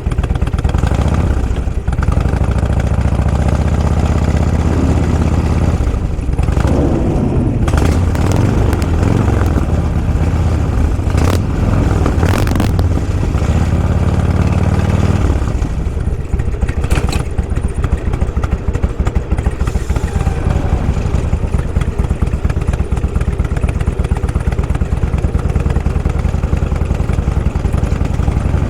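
Motorcycle engine running on the move, its pitch rising and falling through gear and throttle changes a few seconds in, then settling lower about halfway through, with a few short knocks and road noise.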